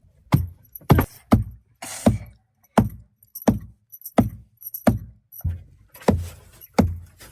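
A steady series of heavy strikes, about one every 0.7 seconds, each a deep thud with a sharp click on top, like repeated blows of a tool on something solid.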